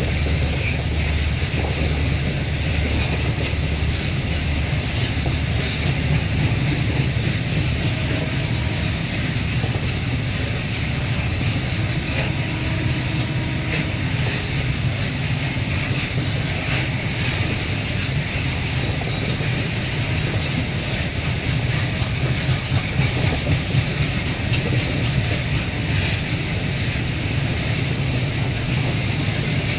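Freight wagons of a long train rolling past close by: a steady rumble of wheels on rails with clickety-clack over the rail joints.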